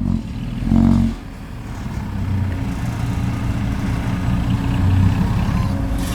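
Heavy diesel engine of construction machinery running steadily, with a brief louder surge a little under a second in.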